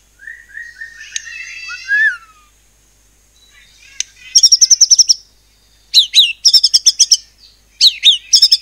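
White-rumped shama singing: a run of short whistled slurs for about two seconds, a pause, then loud rapid-fire runs of sharp repeated high notes, the shama's 'nembak' shooting song, three times.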